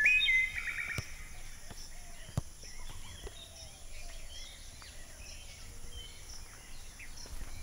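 Rural outdoor ambience with birds: a clear whistled call in the first second, then many small scattered chirps over a low steady background, with a couple of soft clicks.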